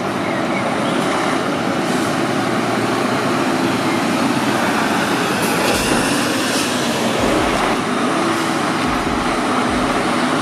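Heavy machinery running: a loud, steady, noisy rumble that stays at an even level throughout.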